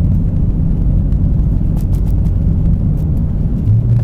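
Dinan-tuned BMW M5's twin-turbo V8 and tyres on a snowy road: a steady low driving rumble, with a low hum growing stronger near the end.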